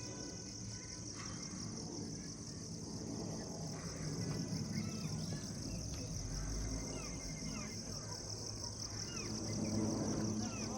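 A steady, high-pitched drone of insects, crickets or cicadas, with short bird chirps scattered through it. Underneath runs an uneven low rumble of movement on the microphone.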